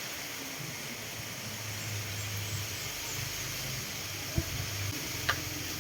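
Two sharp clicks, a little under a second apart near the end, over a steady hiss and a low hum that comes and goes.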